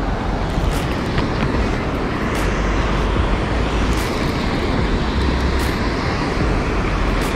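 Steady roar of water pouring through a dam spillway on the Ohio River, with wind buffeting the microphone.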